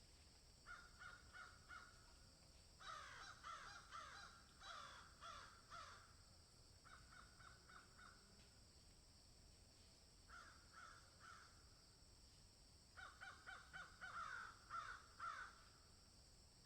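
Birds calling in bouts of rapid, harsh repeated notes, several a second, with the busiest bout near the end, over a faint steady high hiss.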